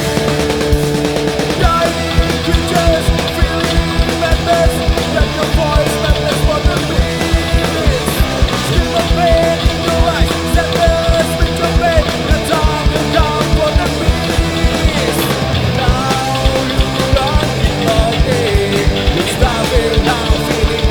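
Loud rock music with a fast, steady drum beat under sustained melodic lines.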